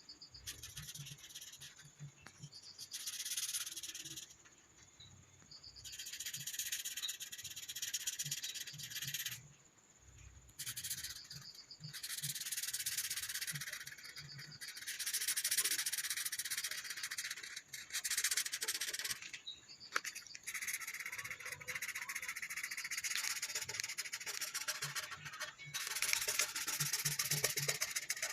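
A colouring tool scratching and rubbing on paper in stretches of a few seconds with short pauses between, as an area is shaded in.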